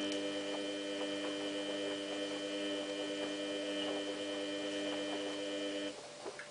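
Samsung WF8804RPA washing machine giving off a steady electrical hum made of several fixed pitches, which cuts off abruptly about six seconds in.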